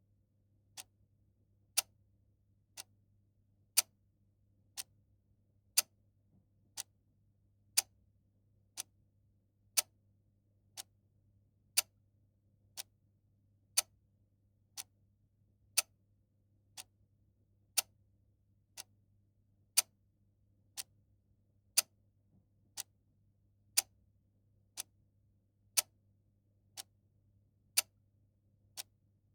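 Clock ticking steadily at about one tick a second, the ticks alternating louder and softer in a tick-tock pattern.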